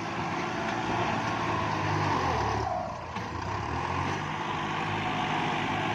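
Kubota diesel tractor engine running steadily while working, with a brief dip in level about three seconds in.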